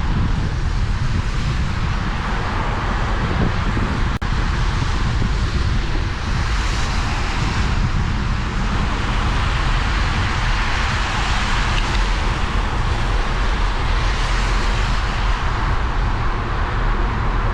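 Steady rushing noise of riding a bicycle in the rain: tyres hissing on a wet path under a low rumble of wind on the microphone. A single sharp click about four seconds in.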